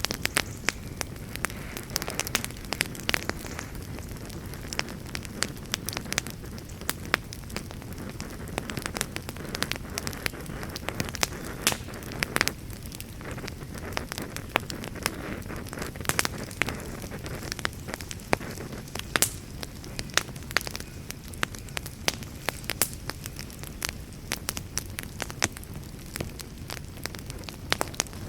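Fireplace fire crackling: frequent sharp pops and snaps scattered irregularly over a steady low rumble of the flames.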